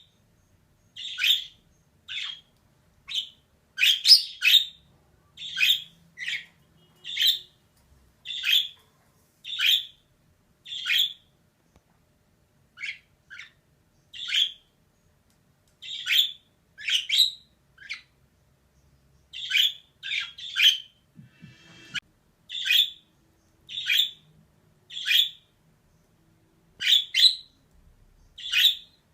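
Female budgerigar giving short, sharp chirping calls one after another, roughly one a second, with a brief pause about twelve seconds in.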